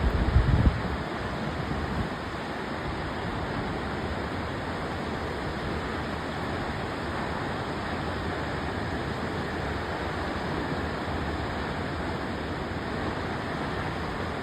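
Shōmyō Falls, a tall waterfall, giving a steady, even rush of falling water. Brief low wind buffeting on the microphone in the first second.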